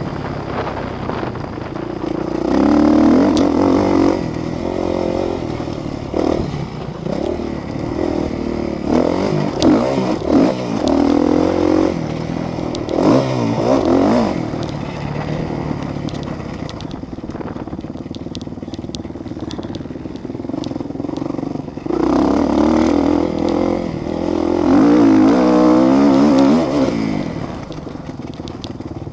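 Motocross motorcycles racing, engines revving up and down as they accelerate and back off. Bikes pass louder a few seconds in, again around ten to fourteen seconds, and once more near the end, with a rising and falling whine on the last pass.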